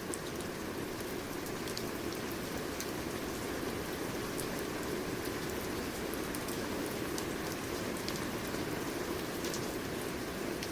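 Steady rain falling, with individual drops ticking irregularly against a surface over a constant hiss.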